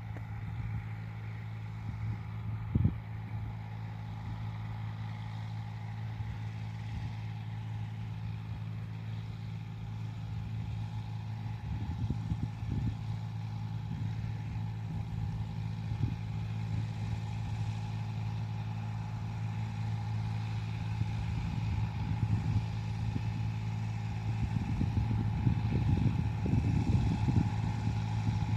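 An engine running at a steady speed, with a sharp knock about three seconds in and more clatter near the end.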